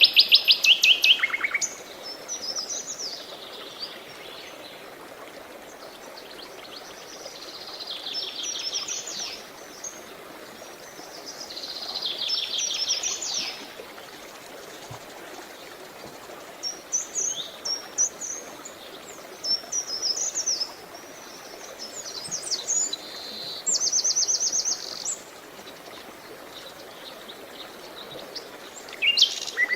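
Songbirds singing in short phrases every few seconds, several of them quick runs of rapidly repeated high notes, over a steady background hiss of running water.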